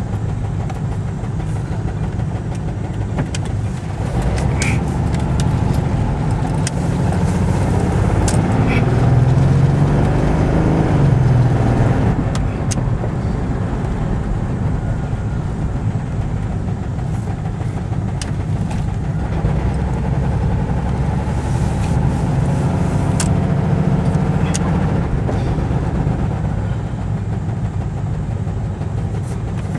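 1996 Chevy S-10 Blazer's 4.3-litre V6 running with a bad muffler and a faulty injector spider. It climbs in revs about eight seconds in, peaks around ten to eleven seconds, then settles back to a steady run.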